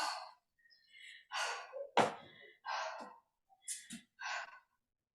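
A woman breathing hard during a rest between weight-training sets, four heavy breaths about a second and a half apart, with a sharp thump about two seconds in.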